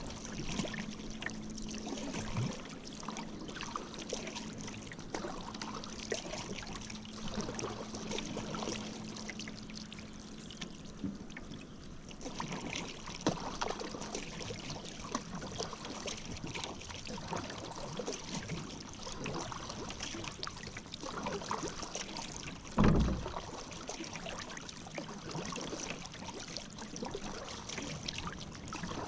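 Paddle strokes in river water: the blade dipping and water trickling and dripping off it, steady and unhurried. A faint low hum fades out about a third of the way in, and one dull thump about three-quarters of the way through is the loudest sound.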